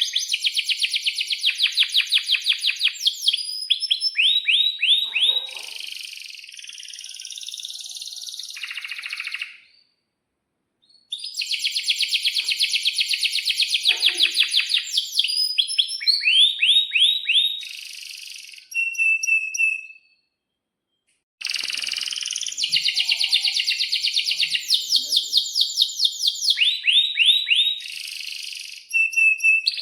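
Domestic canary singing in three long bouts of rapid, evenly repeated trills and quick sweeping notes. It breaks off into brief silence twice.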